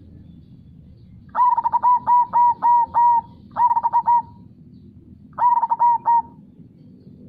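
Zebra dove (perkutut) singing its cooing song in three phrases: a run of about six quick notes, then two shorter runs of about three notes. A steady low rush of river water runs underneath.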